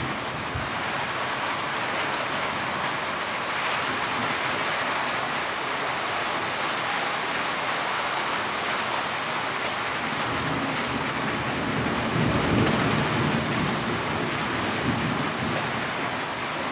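Heavy rain falling steadily. A deep rumble swells up about two-thirds of the way through and fades again.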